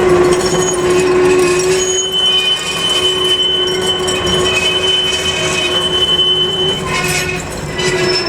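Heritage electric tram running on street rails, its steel wheels squealing on the track: a long high squeal starts about two seconds in and stops near seven seconds, over steady running noise and a lower held tone.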